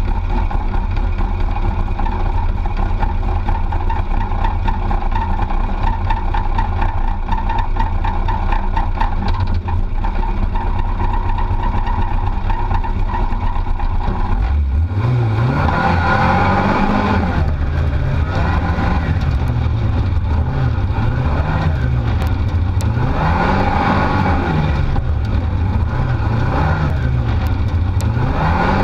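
Small open-wheel motorkhana car's engine idling steadily, then from about halfway revving up and down repeatedly as the car is driven hard through the course.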